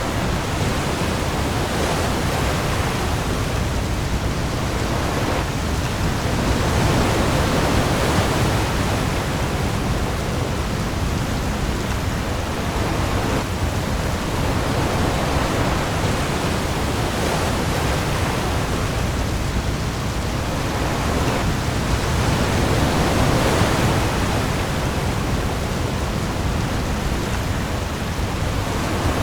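Heavy rain pouring onto the sea with waves, a dense steady hiss that swells gently now and then, over a deep low rumble.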